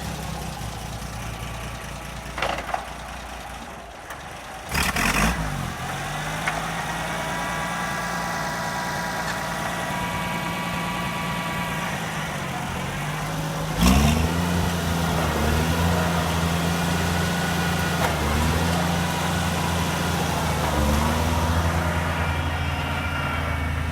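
1968 Oliver 1550 tractor's six-cylinder gasoline engine running at idle, with a short loud burst about five seconds in. A little past halfway the throttle is opened sharply, followed by several brief revs that rise and fall in pitch.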